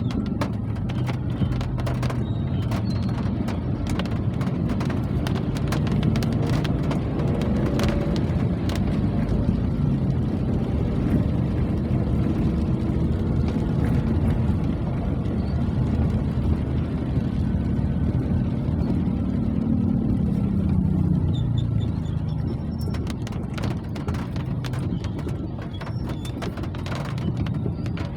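Rain falling, with scattered sharp drop clicks over a steady low rumble that shifts in pitch and eases off about three quarters of the way through.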